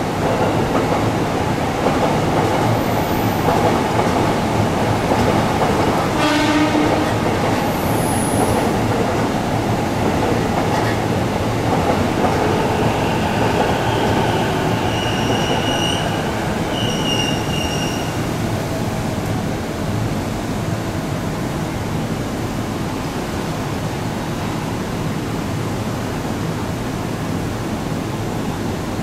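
JR E231-series commuter train running on the tracks as it draws away, a steady rail and running noise that slowly eases. Short high wheel squeals come twice about halfway through.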